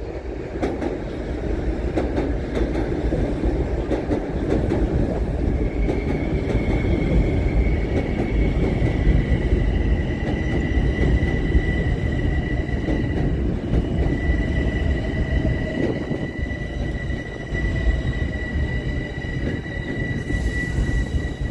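Metro-North commuter train running past with a steady heavy rumble of wheels on rail. From about six seconds in, a high steady whine or squeal sits on top of it and holds almost to the end.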